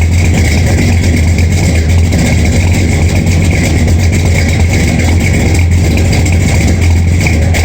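Ford 429 big-block V8 with an Edelbrock intake and Edelbrock Performer RPM cam idling steadily and loudly, warming up after a cold start.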